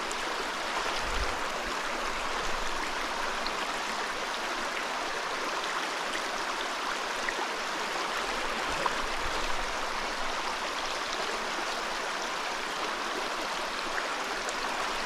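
Steady rush of a small mountain stream running over rocks, with no changes in level.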